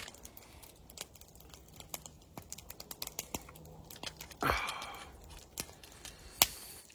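Irregular sharp clicks and small snaps, with a short rush of noise about four and a half seconds in that fades away.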